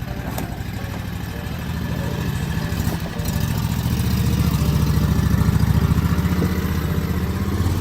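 An engine running steadily at a low idle. It briefly drops near three seconds in, then comes back louder.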